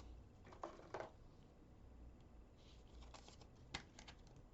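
Near silence, with faint rustles and a few light clicks of trading cards being handled and sorted.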